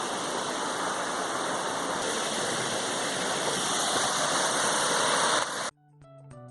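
Small river waterfall at low water, a steady rush of falling water. It cuts off abruptly near the end, and plucked guitar music begins.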